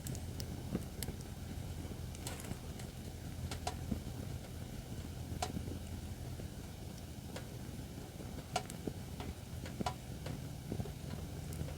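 Acacia firewood burning in a fire pit: irregular sharp crackles and pops, about one a second, over a low steady rumble.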